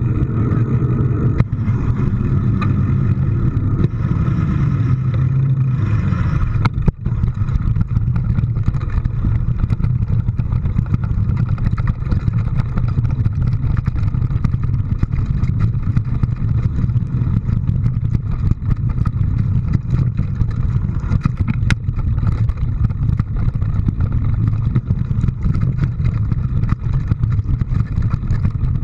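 Rain falling in a dense patter of small ticks over the steady low drone of a running vehicle.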